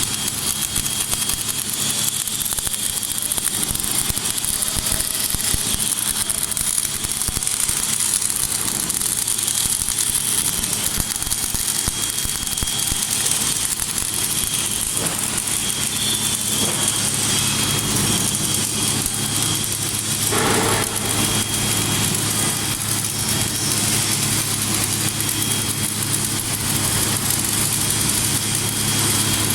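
Welding machine running: a steady low hum with a constant hiss over it.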